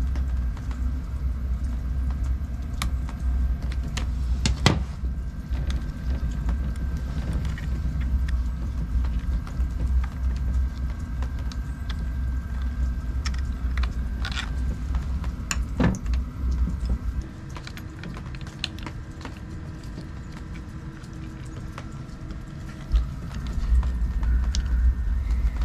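Handling of a chainsaw being taken apart: scattered clicks and knocks of tools and plastic or metal parts over a steady low rumble, which eases off for a few seconds past the middle.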